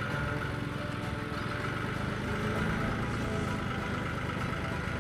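Tractor engine running steadily while it works a front end loader.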